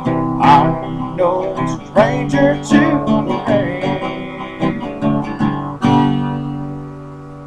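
Acoustic guitar playing the closing bars of a country ballad, picked notes and strums, ending on a final strummed chord about six seconds in that rings out and fades away.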